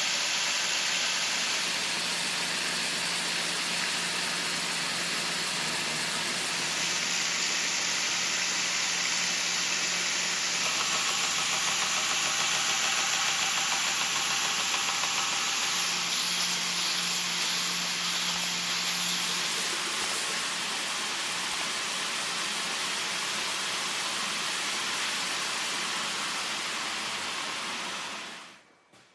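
A workshop machine running with a steady hiss and a faint low hum, fading out shortly before the end.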